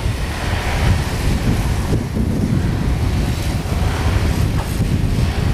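Wind buffeting the camcorder's microphone: a loud, gusting low rumble that flutters constantly.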